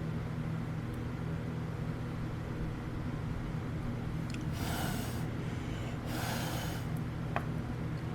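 A person blowing twice in short breaths onto a freshly welded plastic visor to cool the weld, about halfway through and again a second and a half later, over a steady low hum.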